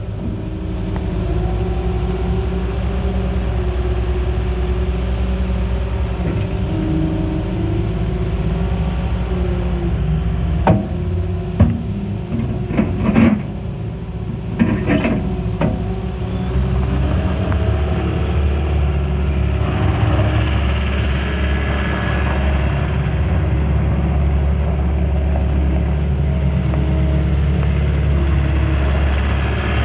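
Cat 242D skid steer loader's diesel engine running steadily, with a run of sharp metallic knocks and clanks midway through. After the knocks the engine note deepens and grows louder.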